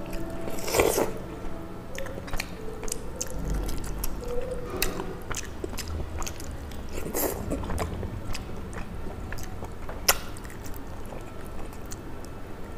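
A person biting and chewing a piece of fish curry eaten by hand, with scattered short mouth clicks throughout.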